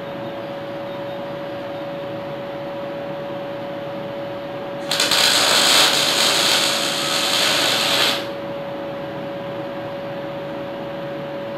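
Electric arc welding on small steel pieces: one weld run of about three seconds, a loud crackling, hissing burst that starts about five seconds in and stops about three seconds later, over a steady background hum.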